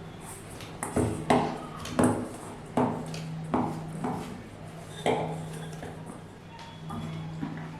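Kitchen clatter: a metal utensil knocking against cookware about six times, each knock ringing briefly, over a steady low hum.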